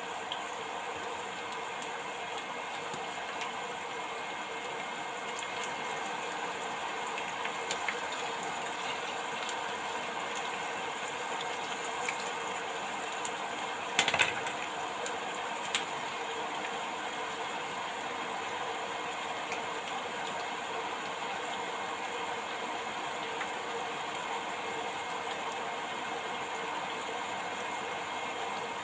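Beetroot leaves deep-frying in hot oil: a steady sizzle with fine crackles, and a brief louder burst of clicks about halfway through.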